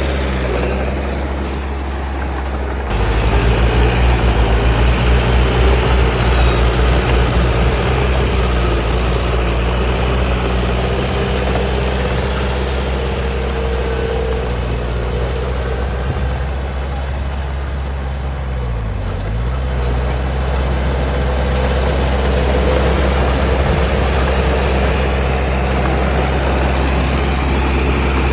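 Bulldozer's diesel engine running steadily, growing louder about three seconds in. Around two-thirds through, its pitch briefly dips and comes back up.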